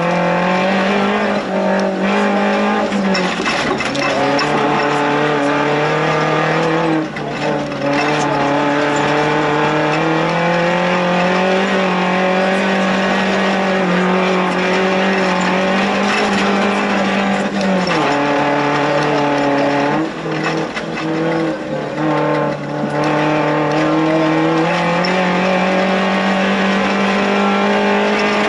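Suzuki Jimny's 1.3-litre 16-valve engine running hard under load, heard from inside the cabin. Its pitch holds high, stepping down and back up several times, with short lifts off the throttle about seven seconds in and again around twenty seconds in.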